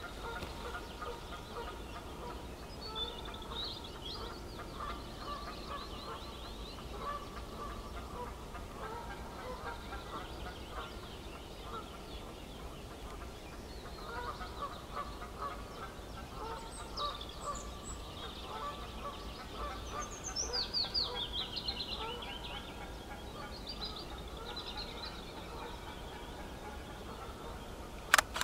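Several birds calling: repeated short chirps and honk-like calls, with a quick falling run of high notes about two-thirds of the way through. Two sharp knocks near the end.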